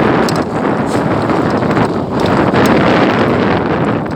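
Strong wind buffeting the microphone: a loud, steady rush with a few brief dips.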